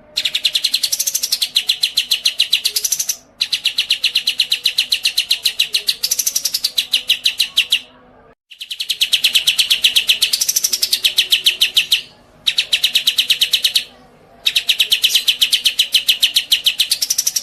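A songbird sings a series of five long, rapid trills, each made of fast evenly repeated high notes, with short pauses between them. A brief rise and fall in pitch runs through the middle of each trill.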